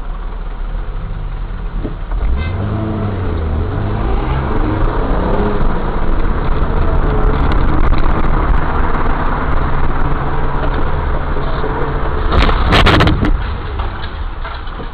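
Car engine and road noise inside a moving car, recorded by a dash camera. The engine pitch rises in steps as the car accelerates, and a loud sudden noise comes about twelve and a half seconds in.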